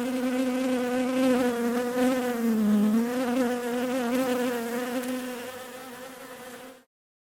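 A bee buzzing steadily on one pitch, dipping briefly in pitch about three seconds in, then fading and cutting off suddenly near the end.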